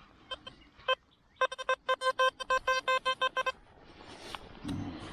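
Electronic metal detector signal: a few single beeps, then a fast run of short beeps on one pitch, about eight a second, lasting about two seconds.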